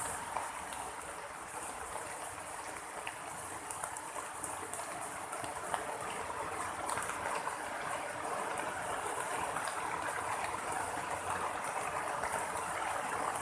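Steady rain falling, a dense even hiss with scattered drip ticks, growing slightly louder over the stretch.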